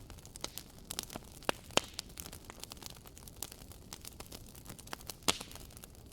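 Wood campfire crackling: irregular sharp pops and snaps over a faint hiss, with a few louder pops, the loudest about five seconds in.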